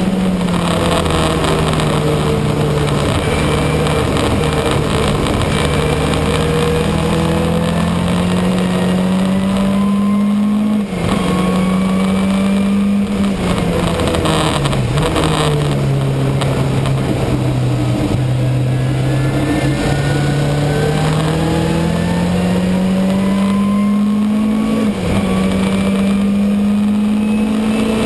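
Ford Sierra RS500 Cosworth's turbocharged 2.0-litre four-cylinder race engine heard from inside the cabin under power. Its pitch climbs slowly for several seconds, drops sharply about eleven seconds in and keeps falling for a few seconds, then climbs slowly again before another short dip near the end.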